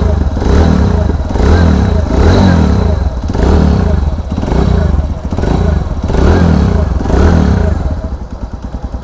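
TVS Radeon BS6's single-cylinder four-stroke engine, freshly rebuilt with new piston rings, being revved in short blips about once a second, then dropping back to idle near the end. This is its test run after the rebuild.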